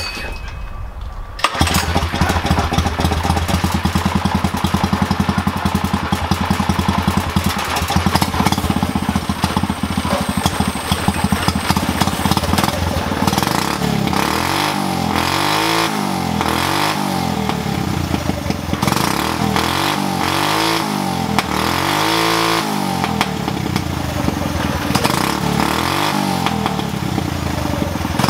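Go-kart engine running through a motorcycle exhaust. It comes in loud about a second and a half in and runs steadily, then from about halfway it is revved up and down again and again.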